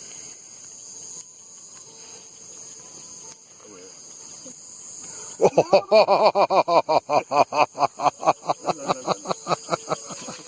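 Crickets or other night insects chirping steadily at a high pitch. About halfway in, a louder rapid string of pulsed calls, about five a second, starts up and fades out toward the end.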